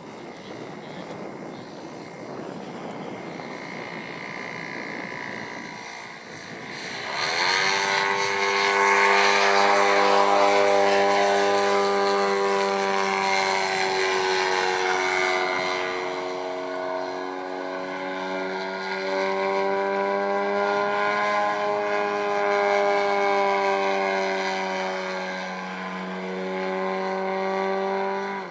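The 3W 157 cc two-stroke petrol engine of a large-scale model Piper Cub, running with its propeller. About seven seconds in, the engine is opened up with a quick rise in pitch. It then runs loud and steady at high revs, its pitch wavering slightly.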